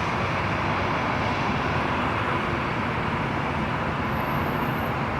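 Steady noise of jet aircraft engines running at the airport. The level holds even throughout, with no rise or fall of a passing aircraft.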